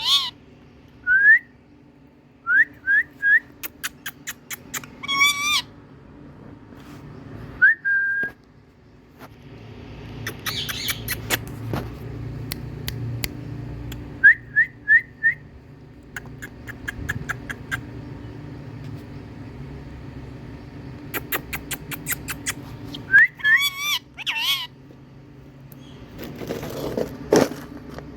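Indian ringneck parrot calling: short rising whistles in quick runs of three or four, with a few harsh, wavering screeches and scattered sharp clicks.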